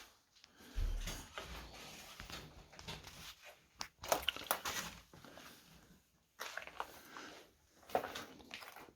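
Irregular crunching, rustling and scraping, with scattered clicks and a low thud about a second in: someone moving about and handling things in a cluttered room.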